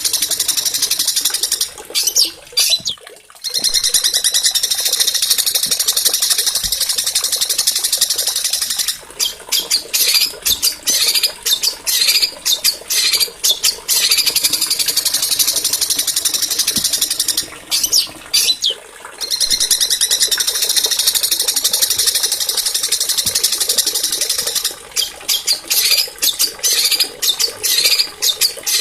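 Small songbirds singing a fast, high-pitched, nearly continuous stream of trills and sharp chattering notes, played as a looped bird-song training recording; the same passage comes round again about every sixteen seconds.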